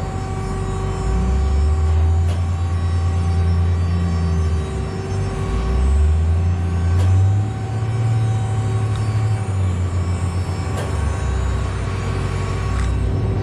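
Engine of a heavy farm vehicle running, a deep rumble that rises and falls in pitch as it revs up and eases off.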